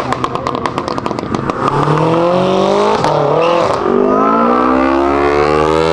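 High-performance car engine accelerating hard. It opens with a rapid string of sharp pops, about ten a second, then the engine note climbs steadily, dipping briefly about three seconds in as it shifts up.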